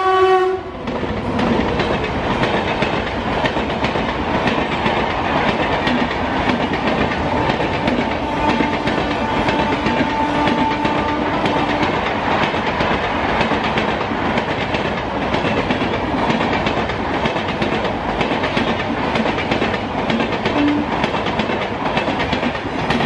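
An electric locomotive's horn ends within the first second, then a long passenger train rushes past close by at speed, its wheels clattering over the track in an even, loud rumble.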